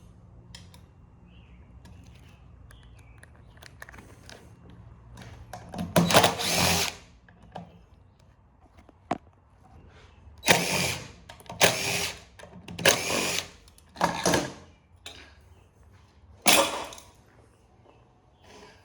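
Handheld power drill run in six short bursts, the first and longest about six seconds in and the last near the end, backing out fasteners.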